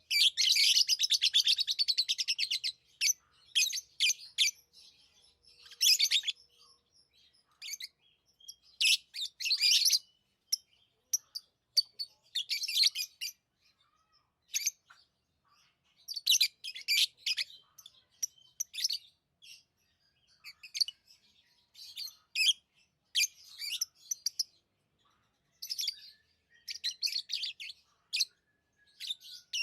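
Pet lovebirds chirping: a fast run of high-pitched chirps in the first couple of seconds, then short bursts of chirps with brief pauses between them.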